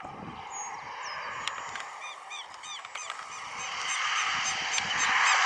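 Birds giving short, repeated high calls, coming thick and fast from about two seconds in. Under them a broad rush of noise grows louder toward the end.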